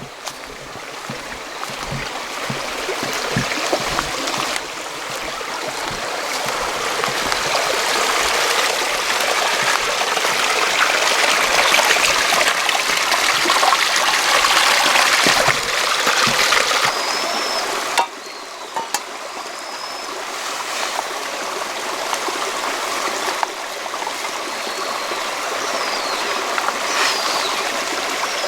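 Running water, a steady rushing and trickling like a small forest stream. It swells towards the middle, changes level abruptly a few times, and a few short high chirps sound in the second half.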